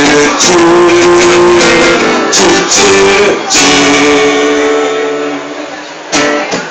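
Live music led by guitar, with strummed chords and held notes, as the instrumental intro to a song; it fades briefly near the end, then comes back in with a strong strum.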